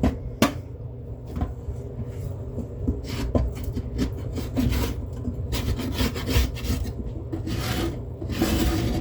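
Irregular scraping strokes as beehive trays are scraped clean, some short and some drawn out, over a steady low hum.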